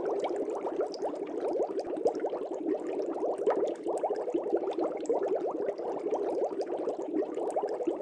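Aquarium air bubbles rising and bursting in the water, a steady, rapid bubbling with many small pops every second.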